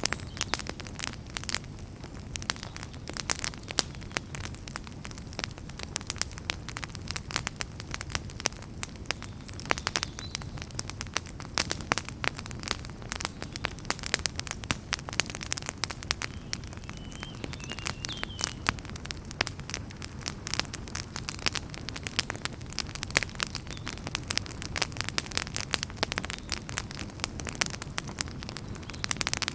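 Wood fire crackling: dense, irregular pops and snaps of burning firewood over a steady low rumble of the flames.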